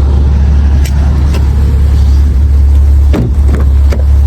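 Steady low rumble of the Maserati Levante's engine idling, heard inside the cabin, with a few light clicks and taps.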